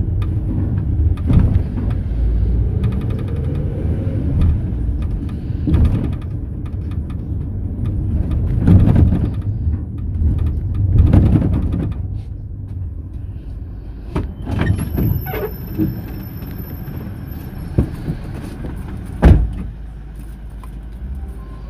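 Inside a Mercedes-Benz Sprinter minibus on the move: steady engine and road rumble with bumps and rattles. Past the middle a thin high whine runs for about three seconds among some clicks, and a sharp loud knock comes a couple of seconds before the end.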